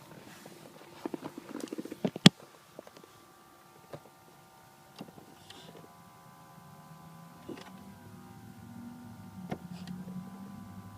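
Nissan 350Z ABS pump/module running with the engine off, a steady high electrical whine with scattered sharp clicks, one loud click about two seconds in and a low hum building near the end. The ABS pump is stuck on, a fault that runs the battery flat.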